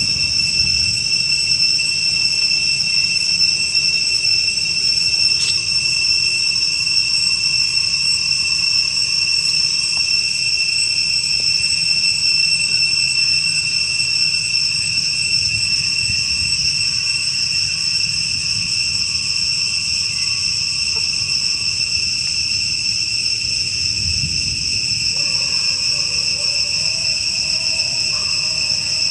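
A steady, high-pitched insect chorus drones without a break. About 25 seconds in, a faint wavering call joins it.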